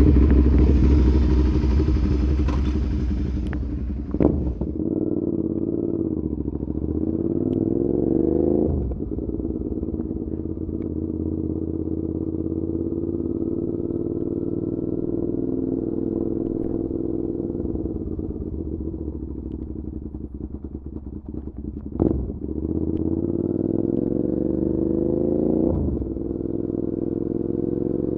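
Suzuki SV650 V-twin through an aftermarket SC Project exhaust, ridden on the road. Its pitch climbs hard, then drops abruptly several times as it runs up through the gears, with a steady cruising stretch between.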